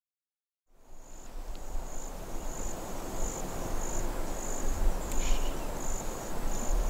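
After a moment of silence, an insect chirping fades in, a high thin pulsing trill repeating about one and a half times a second, over a steady rushing hiss and low rumble of outdoor ambience.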